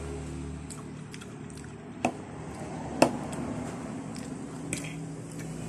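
Close-up wet chewing and squishing of a jackfruit salad being eaten, over a low steady hum. Two sharp clicks come about two and three seconds in.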